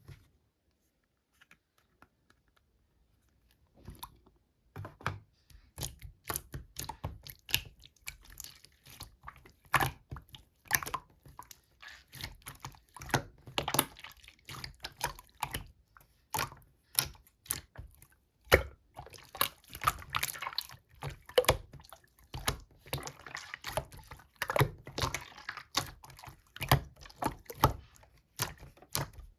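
Slime being squished and pressed by hand, making a quick, irregular run of sticky clicks that starts about four seconds in.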